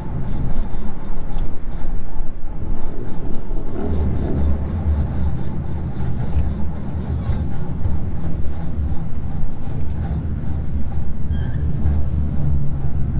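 Old pickup truck driving with its engine running in a steady low rumble. The engine is running hot with low oil pressure.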